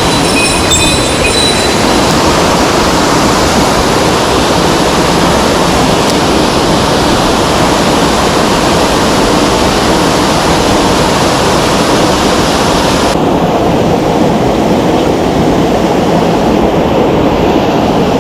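Mountain stream rushing, a loud, steady wash of water noise; its upper hiss turns duller about two-thirds of the way through.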